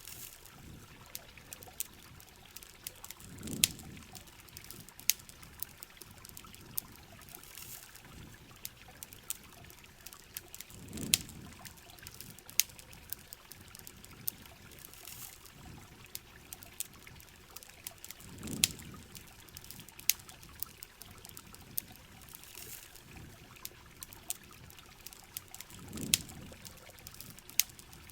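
Steady rain hiss with the crackle and snap of a campfire. Sharp pops are scattered throughout, and a soft low thump repeats about every seven and a half seconds.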